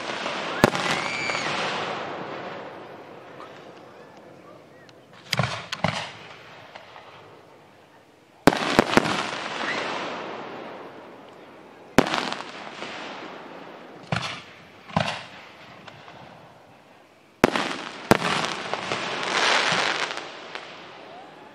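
Aerial firework shells bursting overhead: about ten sharp bangs a few seconds apart, some in quick pairs. Each bang is followed by a long crackling hiss that fades away.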